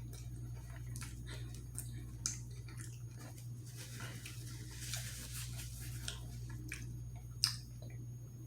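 Close-miked chewing with irregular wet mouth clicks and smacks, over a steady low hum.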